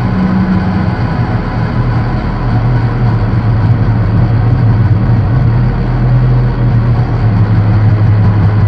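Electronic noise-drone music from drone synthesizers: a dense rumbling noise texture over loud held low tones that shift pitch a couple of times.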